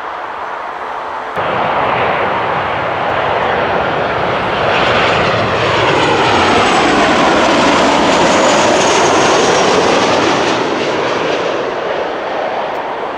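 Boeing 737-800 jet airliner passing close by on arrival: the engine noise builds to a peak in the middle and eases near the end, with a sweeping phasing tone that falls and then rises as it goes past.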